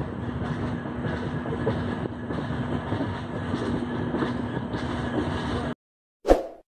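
Konkan Kanya Express coaches rolling out of the station, heard from on board: a steady running noise of wheels on rails with a constant hum. It cuts off abruptly near the end, followed by one short, loud sound effect.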